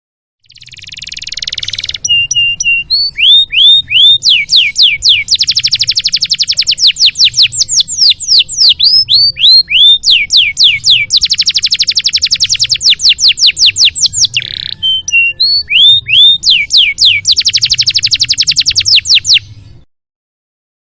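Domestic canary singing a long, varied song: runs of rapid downward-sweeping whistled notes alternating with dense rolling trills. The song stops abruptly shortly before the end.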